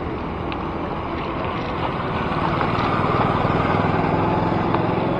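Street traffic heard from a bicycle: a motor vehicle's engine running close by, growing louder from about two seconds in, over a steady rush of road noise.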